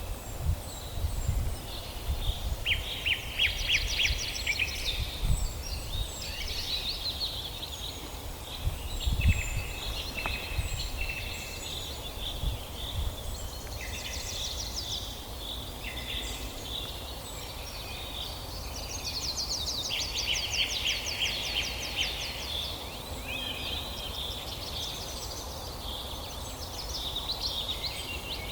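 Several forest birds singing and calling at once, with repeated fast trills and short chirps overlapping. A low rumble comes and goes underneath, strongest near the start and about nine seconds in.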